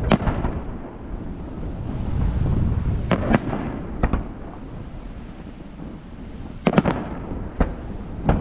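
Fireworks shells bursting in the sky: sharp bangs right at the start, a pair about three to four seconds in, and a cluster of three near the end, over a continuous low rumble.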